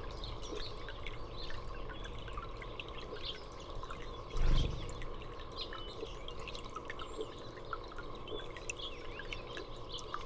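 Small songbirds chirping in short, scattered calls, with one brief low thump about four and a half seconds in.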